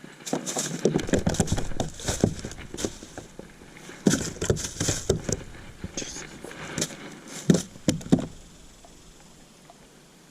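Irregular knocks, clicks and rustling from handling a freshly caught fish and fishing gear in a plastic kayak. The knocks come in uneven bunches and die away about 8 seconds in.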